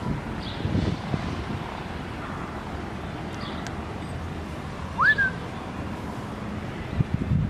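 One short, loud whistle that rises sharply and then dips slightly, about five seconds in, over steady outdoor background noise with a few faint high chirps.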